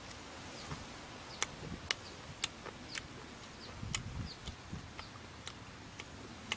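Close-up chewing of grilled chicken gizzard: wet mouth clicks and smacks at an irregular pace of about two a second, with a few soft low thumps from the chewing. Faint short high chirps sound in the background.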